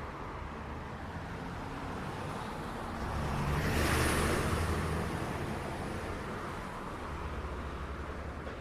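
City street traffic: a steady rumble of engines and tyres, with one vehicle passing close about four seconds in, swelling and fading over a couple of seconds.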